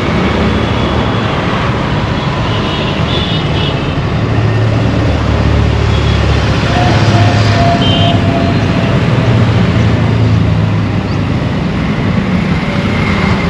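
Busy Indian road traffic: a steady mix of engine and tyre noise, with a heavier low engine drone swelling from about four seconds in and easing off near eleven seconds. A few brief high tones sound over it.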